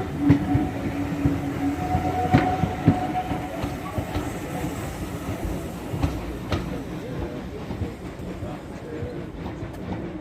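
Railway train running on the track, its wheels clicking and knocking over rail joints over a steady rumble, with a brief whine about two seconds in; it gets gradually quieter toward the end.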